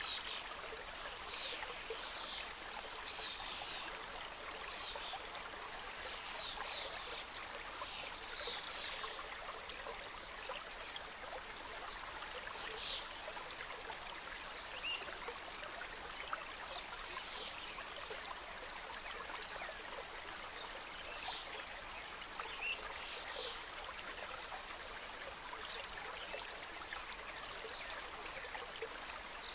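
Mountain stream running over rocks: a steady rush of flowing water with brief brighter splashes now and then.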